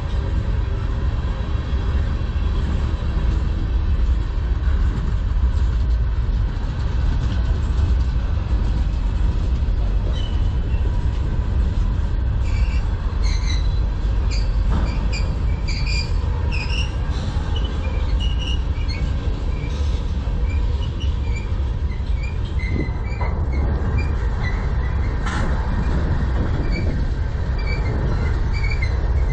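Freight cars of a manifest train, tank cars and covered hoppers, rolling steadily past close by: a constant low rumble of wheels on rail. Short high-pitched wheel squeals come and go through the second half, with an occasional knock.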